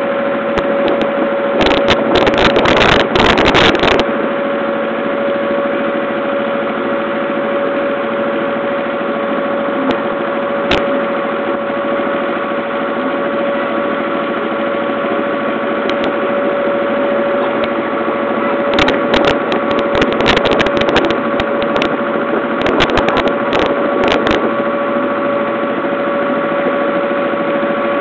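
Ferry boat's engine running steadily with a constant hum, heard on board during the river crossing. Bursts of crackling noise come a couple of seconds in and again past the middle.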